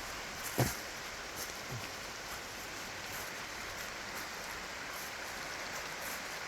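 Steady rushing noise of flowing water, with a sharp thump about half a second in and a softer one about a second later.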